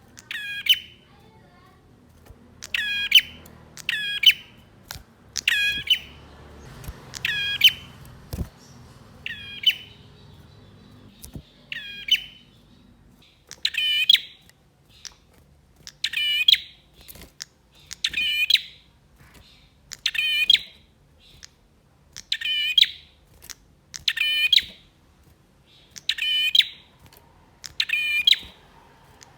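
Male prinia (prenjak) singing: a loud, bright, chirping call of about half a second, repeated roughly every two seconds.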